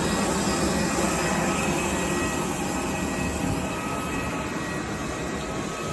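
Steady rushing drone of jet airliner engines, with a few faint steady tones running through it.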